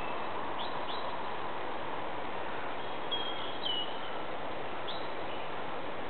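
A few short, high bird calls over a steady background hiss: two quick chirps about half a second apart, then a held whistle that steps down in pitch midway, and one more chirp.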